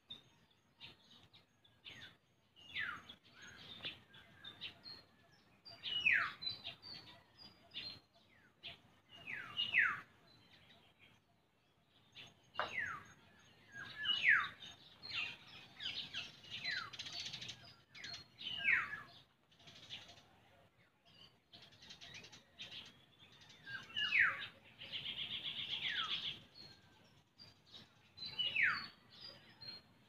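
Wild birds calling in a tree canopy: one bird repeats a clear whistled note that slides downward, every three to five seconds, among short scattered chirps from other birds. About 25 seconds in, a buzzy trill runs for about a second and a half.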